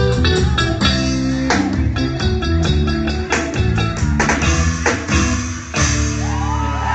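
Band music with no singing: picked guitar lines over a stepping bass line and a drum kit keeping a steady beat, settling onto a longer held chord about six seconds in.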